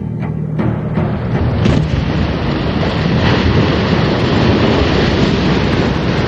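Ocean waves and surf rushing, a loud, steady wash of water noise that swells about a second and a half in.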